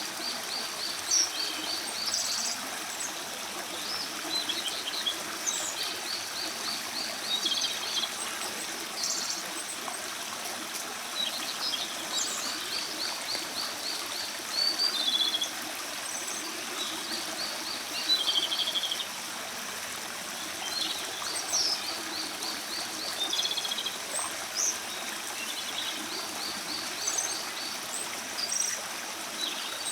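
Japanese robin (komadori) singing its song over and over: each phrase is a high, rapid rattling trill, repeated roughly every three seconds. A running stream hisses steadily beneath it.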